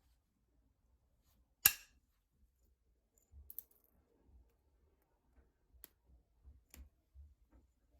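Novaculite being knapped: one sharp, loud click about a second and a half in as a flake snaps off, then a few fainter clicks and soft low knocks of stone being handled.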